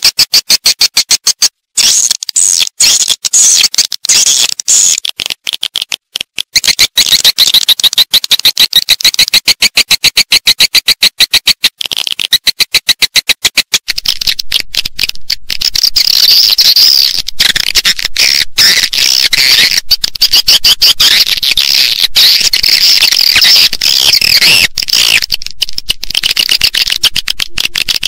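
Swiftlet calls from a nest-house lure recording: rapid, regular chirping pulses, giving way about halfway through to a denser twittering chorus of many birds.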